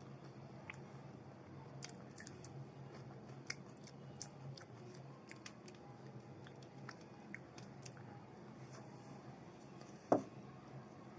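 Close-miked mouth sounds of a person chewing a meal of rice with side dishes: scattered small wet clicks and smacks over a steady low hum. One short, louder sound about ten seconds in.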